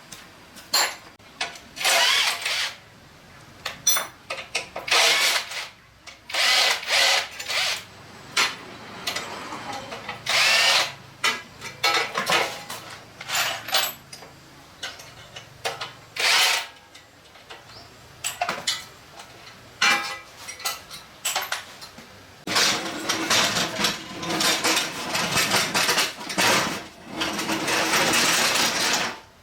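Handheld power tool, drill-like, run in repeated short bursts of one to two seconds, with a longer run near the end.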